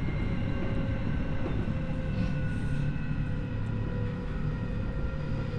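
Keio 1000 series electric train running, heard from inside the car: a low rumble of wheels on rail, with several steady tones from the traction equipment above it.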